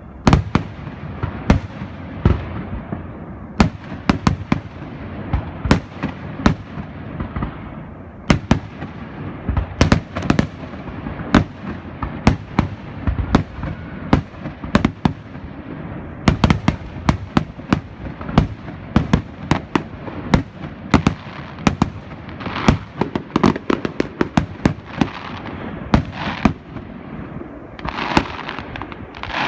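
Fireworks display: a dense, continuous barrage of sharp bangs and crackling reports, several a second, over a steady rumble of echoing explosions.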